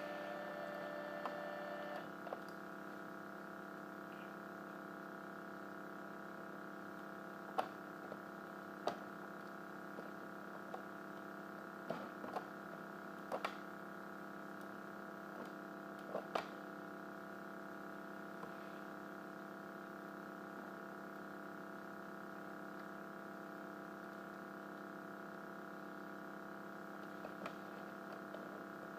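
Steady electrical hum made of several tones, with scattered light clicks and taps. One of the tones drops out about two seconds in.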